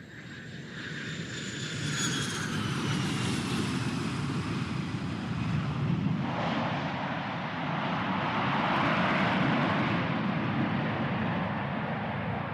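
Airplane coming in to land: engine noise grows louder with a high whine that slowly falls in pitch over a steady low rumble. About six seconds in, a sudden louder rushing roar sets in and holds.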